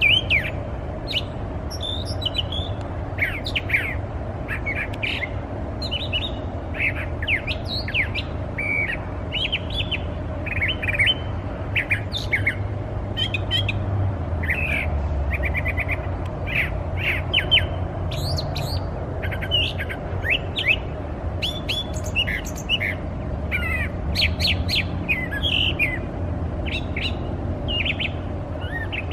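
Brown thrasher singing a long, unbroken run of short, varied phrases of quick chirps and whistled notes. About halfway through comes a series of six rapid repeated notes, which may be an imitation of a northern flicker.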